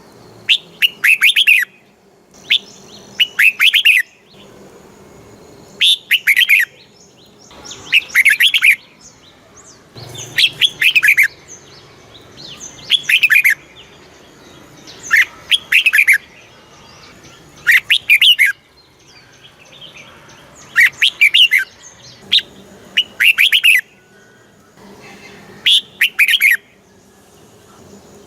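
Red-whiskered bulbul song: short phrases of quick, clear whistled notes, about a dozen of them, repeating every two seconds or so.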